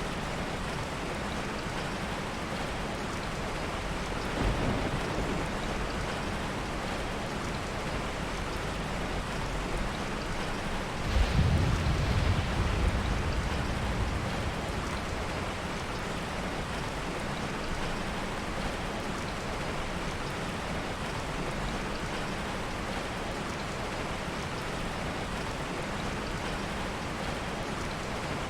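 Heavy rain falling steadily, with a low roll of soft thunder about eleven seconds in that lasts around three seconds and a fainter rumble near four seconds in.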